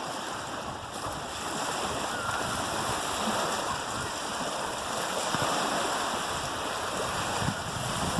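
Steady rushing noise of waves on a shore.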